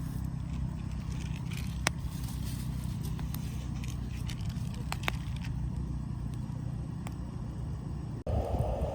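A steady low rumble with a few sharp clicks, then an abrupt cut near the end to a brighter, hissing sound.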